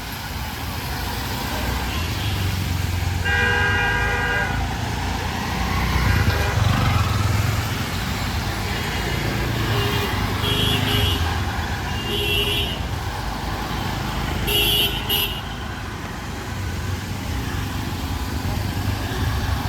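Busy street traffic with a steady engine rumble. A vehicle horn sounds one long blast about three seconds in, followed by several short toots from horns further on.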